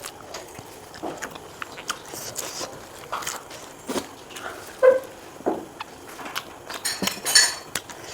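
Someone eating snails with pork rib curry: scattered clinks on the dish between bites, with chewing sounds.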